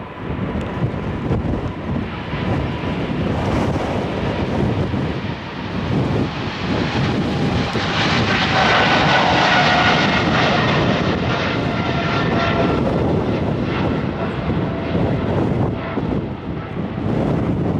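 Jet airliner's engines as it passes, the roar building to a peak about halfway through, with a whine that drops slightly in pitch as it goes by.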